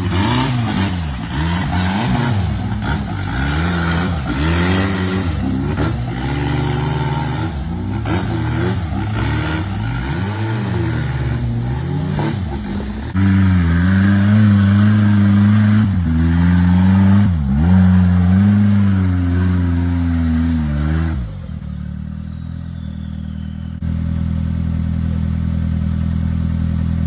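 An off-road 4x4's engine revving up and down over and over under load, then settling to a steady, even run about three-quarters of the way through.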